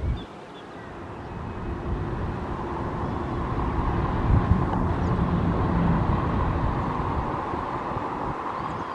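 Boeing 737-800's CFM56-7B jet engines during its landing, the noise building over a few seconds to a peak about midway and then easing off.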